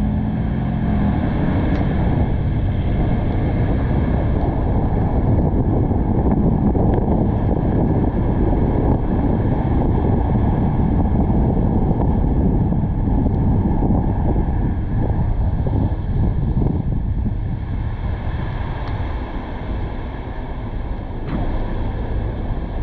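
Wind noise and road noise from a car driving, picked up by a camera mounted on its roof. The noise is steady and eases a little in the last few seconds.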